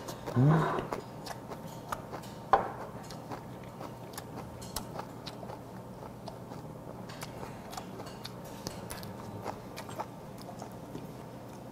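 Close-miked chewing and mouth sounds of a man eating a mouthful of food, with scattered soft clicks and ticks. About half a second in, a short rising 'mm' from the eater is the loudest sound, and a single sharp click comes at about two and a half seconds.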